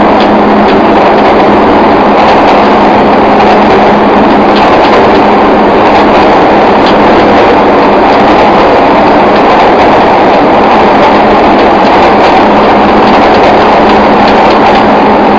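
JR Kyushu 305 series electric train running at steady speed through a subway tunnel, heard from inside the car. A loud, steady rumble of wheels and tunnel noise carries a steady low hum, with faint clicks now and then.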